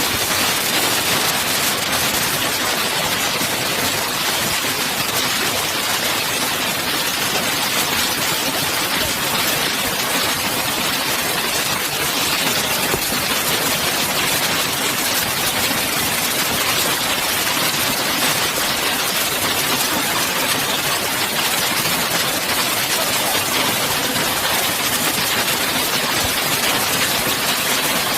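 Hail and rain pelting down hard in a dense, unbroken clatter of small impacts, steady throughout.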